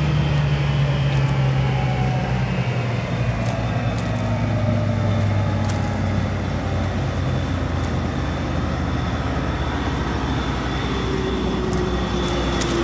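Combine harvester running in the paddock, a steady machine drone with a faint high whine, its pitch slowly sagging over the first several seconds.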